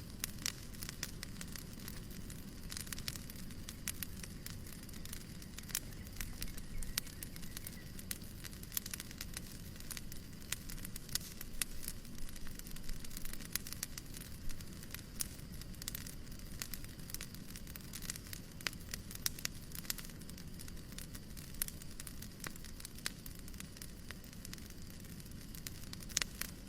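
Fireplace crackling: irregular sharp pops and snaps over a steady low rumble of burning and a soft hiss.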